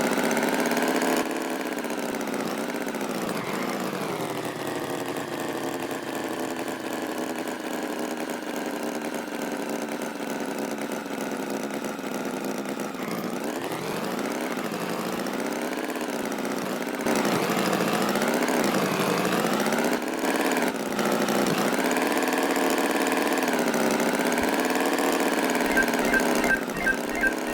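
Tractor engine running, its pitch rising and falling slowly as it revs up and down. Near the end a string of short, evenly spaced high beeps begins.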